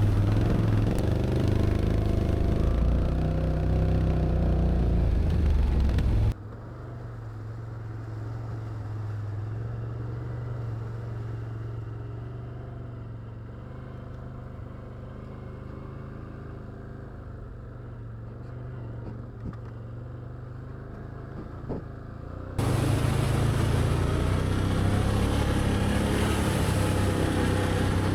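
Can-Am Outlander ATV engine running steadily as it rides a rough trail, with wind and ride noise. About six seconds in the sound drops suddenly to a quieter, duller engine drone, then jumps back to full level for the last few seconds.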